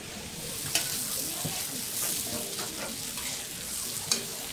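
Shredded potato sizzling on a hot round iron griddle as a metal spatula spreads it out. The hiss grows a little about half a second in, and two sharp clicks of the spatula on the griddle stand out, about a second in and near the end.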